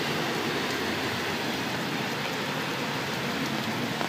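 Heavy rain pouring down, mixed with the rush of a car's tyres spraying through deep flood water on the road. It makes a steady, even hiss.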